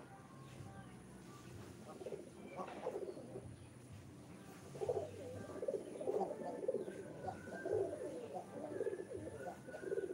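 Domestic pigeons cooing, a short call about two seconds in, then a long run of low, pulsing coos from about halfway on.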